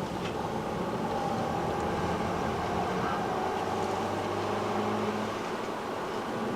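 Car engine running at a steady speed with a steady hum, easing off about five seconds in.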